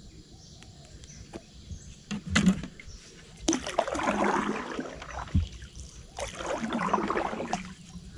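Water splashing and sloshing in two spells, about three and a half seconds in and again about six seconds in, with a few light knocks just before.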